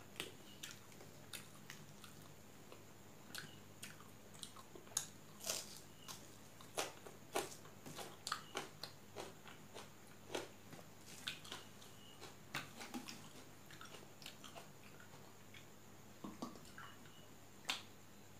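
Close-miked mouth sounds of a person eating rice and dal by hand: irregular wet smacks and clicks of chewing, with one sharper click near the end.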